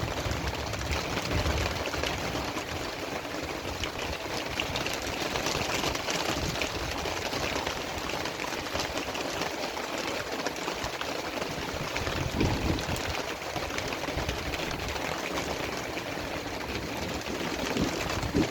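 Heavy rain falling steadily in a storm, an even hiss of drops, with a brief low rumble about twelve seconds in.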